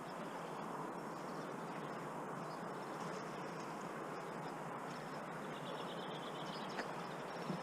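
Small birds chirping, with one short trill a little after the middle, over a steady rushing background; two brief sharp ticks near the end.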